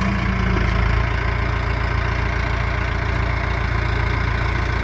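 Diesel engine idling steadily, a low rumble with an even, rapid run of firing pulses.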